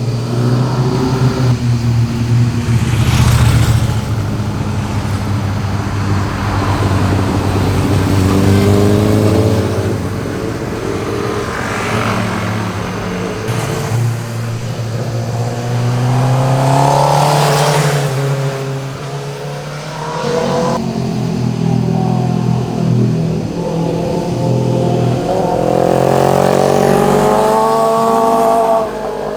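Sport motorcycles passing one after another, engines revving up and easing off. The exhaust note rises in pitch under acceleration, and there are several loud peaks as bikes go by close.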